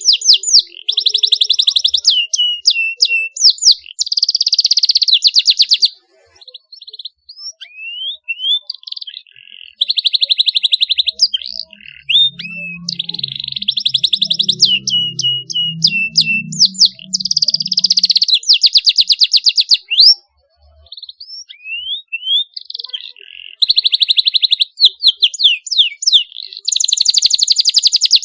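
Domestic canary singing long phrases of fast, sharp rolling trills mixed with quick rising chirps. The song breaks off briefly twice, about a third of the way in and again after the middle.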